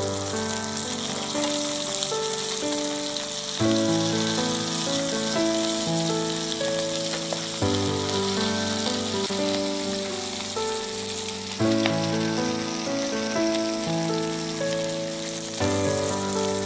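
Chicken and onion sizzling as they fry, a steady high hiss. Background music with held notes plays over it, its phrases starting again about every four seconds.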